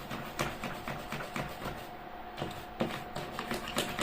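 A small brush scrubbing a circuit board in quick, irregular scratchy strokes, several a second, over a faint steady whine.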